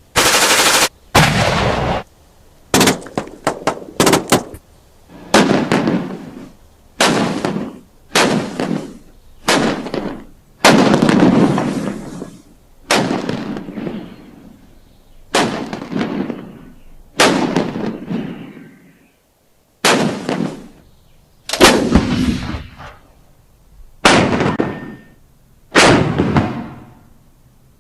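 Gunshots: a quick run of cracks in the first few seconds, then single shots about every second and a half to two seconds, each trailing off in a rolling echo.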